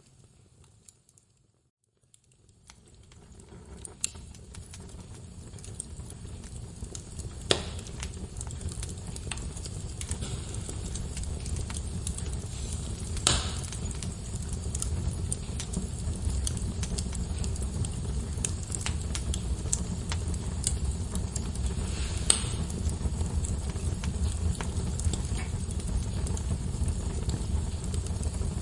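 Log fire crackling in a fireplace, fading in from silence over the first few seconds. A steady low rumble of flames carries scattered small crackles and a few sharp pops, the loudest about 7, 13 and 22 seconds in.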